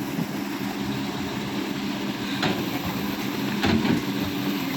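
Excavator's diesel engine running steadily, with two short knocks, about two and a half and about three and a half seconds in.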